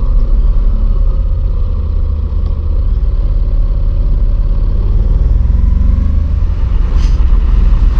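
Motorcycle with a dual-clutch transmission being ridden at road speed: a steady low rumble of wind and engine, with the engine note rising about five seconds in.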